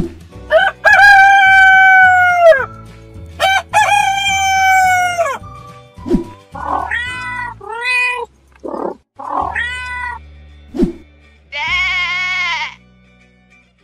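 Cartoon animal sound effects over a steady background music bed. A rooster crows twice in long calls, then a cat meows several times, and near the end a sheep bleats.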